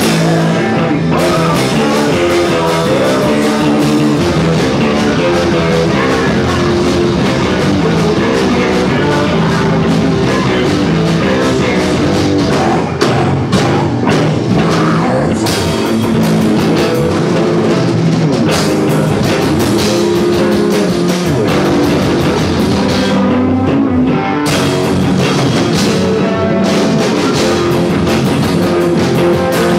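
Loud rock music: a drum kit, guitar and singing.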